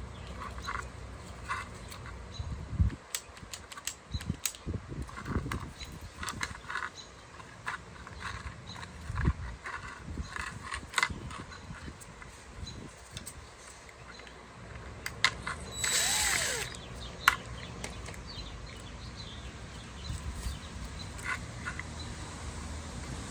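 Scattered light clicks and knocks of door lock parts being handled, with a brief louder rattle about sixteen seconds in.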